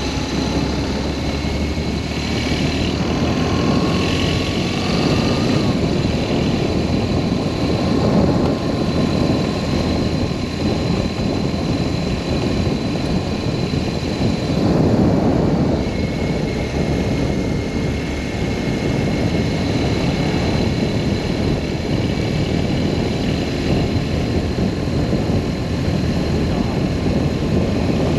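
BMW R1200S boxer-twin engine running under way, mixed with a steady rush of wind over the microphone that swells and eases a few times.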